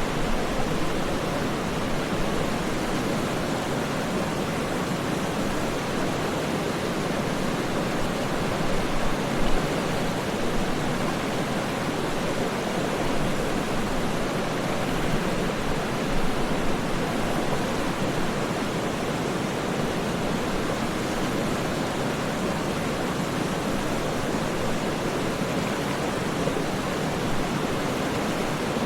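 Waterfall rushing in a steady, even roar of falling water, with no breaks or changes.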